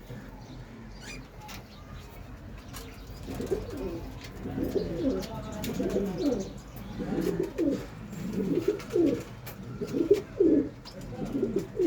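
Domestic pigeons cooing: a run of low, warbling coos that begins about three seconds in and repeats every second or so.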